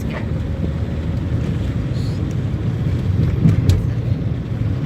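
Steady low rumble of a car on the move: road and engine noise with wind buffeting the microphone.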